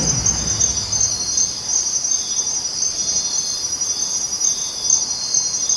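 Insect chirping in a steady, high-pitched, unbroken trill.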